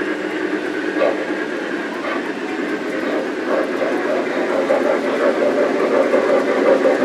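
O gauge three-rail model train running on the track, a steady rumble of motors and wheels on rail with a few faint clicks.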